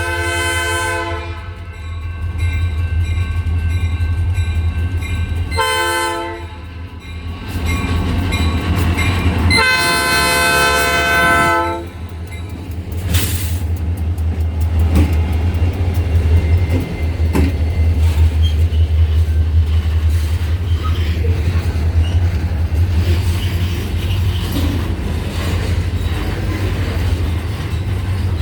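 Diesel freight locomotive's multi-note air horn sounding: a long blast ending about a second in, a short blast, then a long blast ending about twelve seconds in. Under and after it, the locomotives' diesel engines drone low and the freight cars roll past with steady wheel-on-rail clatter.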